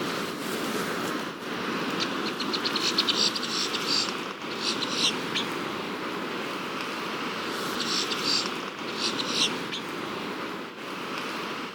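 Steady rush of ocean surf and wind. A rapid, high chirping call comes twice over it, first about two seconds in and again about eight seconds in.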